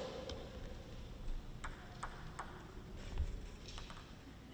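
A few light ticks of a table tennis ball bouncing, about half a second apart, against faint hall noise between points.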